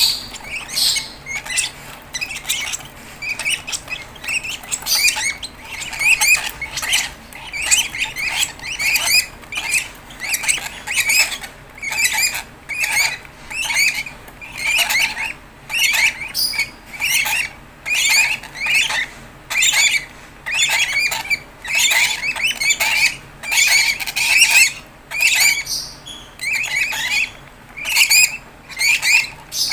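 Fischer's lovebird chicks giving raspy begging squawks in quick, repeated bursts, about two a second. This is the food-begging call of chicks being hand-fed.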